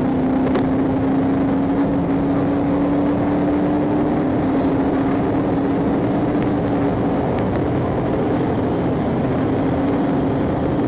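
Patrol car engine and road noise heard inside the cabin at speed during a pursuit: a steady drone whose pitch drifts slowly, over a constant rush of tyre and wind noise.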